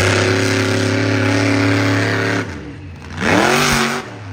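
Monster truck engine held at high revs, falling off about two and a half seconds in, then a sharp rising rev burst near the end that drops away again.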